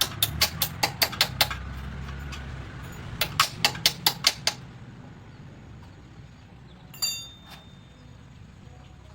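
Ratchet wrench clicking in two quick runs of evenly spaced clicks, about five or six a second, as a nut is worked on the motorcycle, followed about seven seconds in by a single ringing metal clink of a tool or part set down.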